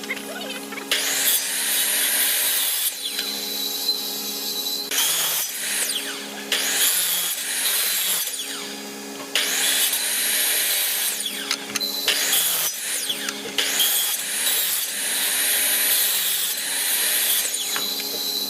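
Power tool working wood in repeated passes of one to two seconds each, about a dozen, over a steady motor hum.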